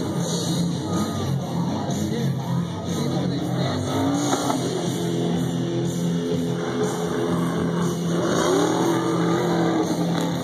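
Off-road race trucks' engines revving up and down as they race past, with music playing over them.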